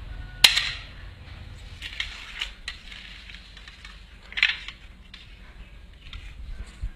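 A sharp snap about half a second in and another about four and a half seconds in, with a few lighter clicks between.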